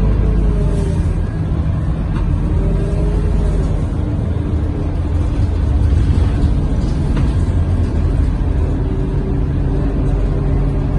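A Scania K230UB city bus under way, heard from inside: a steady low engine and road drone, with faint whining tones that rise and fall as the bus changes speed. A couple of light rattles come through.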